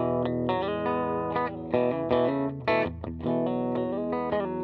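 Electric guitar played through a Line 6 Helix modeller patch, picked notes and chords ringing on over one another, with a new note struck every half second or so.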